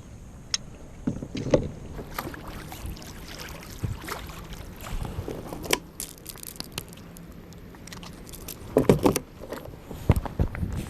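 Handling sounds in a fishing kayak: irregular knocks and clicks of gear and body against the hull over light wind, with a cluster of louder thumps about nine seconds in.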